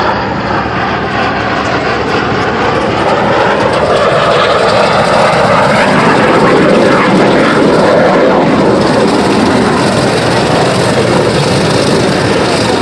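An airplane's engine noise as it flies past, loud throughout and swelling to its loudest about halfway through, with its pitch sliding as it passes.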